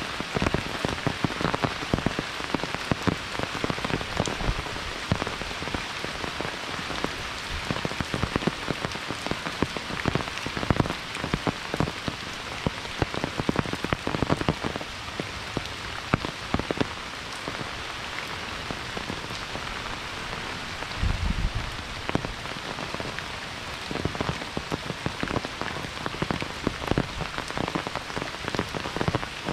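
Monsoon rain falling steadily: a constant hiss thick with the patter of many individual drops striking. There is a brief low rumble about two-thirds of the way through.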